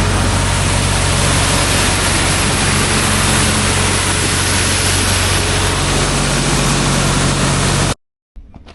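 Engine running steadily under a loud, even rushing noise. It cuts off abruptly near the end.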